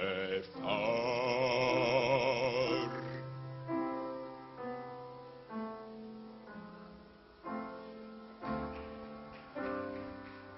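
A singer holds a long sung note with wide vibrato on the word "Gefahr", ending about three seconds in. Then a piano plays slow chords alone, about one a second, each left to die away.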